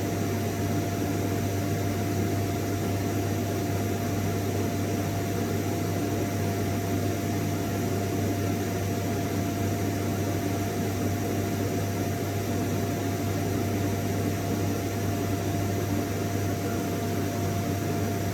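Vacuum cleaner running steadily: an even rushing hiss over a low hum, with a thin steady whine and no change in pitch or level.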